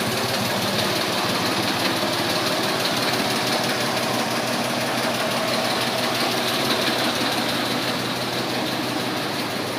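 Ford tractor's three-cylinder petrol engine idling steadily through a home-fabricated exhaust pipe.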